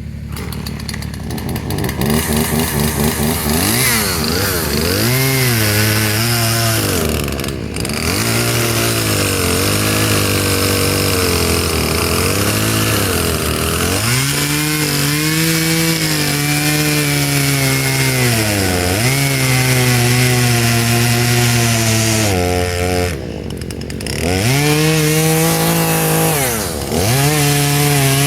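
Husqvarna 120 two-stroke chainsaw idling, then revved hard about two seconds in and bucking a log. The engine pitch sags under load and picks back up as it cuts. It eases off briefly near the end before cutting again.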